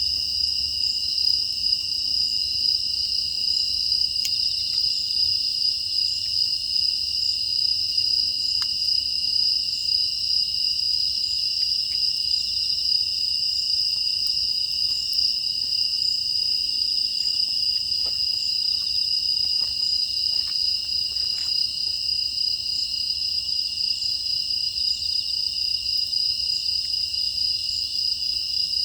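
Crickets and other grass insects chirring in a dense, steady chorus at two high pitches, with a few faint ticks scattered through the middle.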